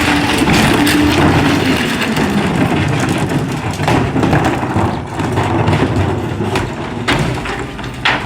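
Rear-loader garbage truck with a Pak-Mor packer body on a CCC chassis running loud as it works a load of heavy trash, engine and packing noise mixed, with a few sharp cracks and knocks near the end.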